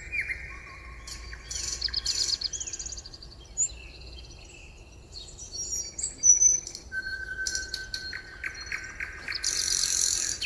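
Several songbirds singing and calling at once, a dense mix of chirps, whistles and fast trills, with a harsh hissing burst near the end.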